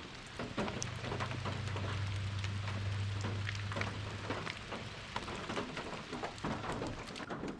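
Heavy rain falling steadily, with many individual drops ticking on the van. A low steady rumble sits under it for the first few seconds.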